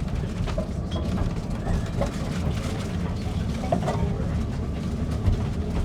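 Narrow-gauge railway carriage running along the track, heard from inside: a steady low rumble with faint rattles and clicks from the wheels and coach.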